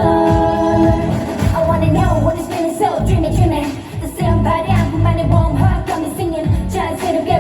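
K-pop girl group's female vocals over an amplified pop backing track with a strong beat, opening on a held sung note and then moving into a flowing sung line.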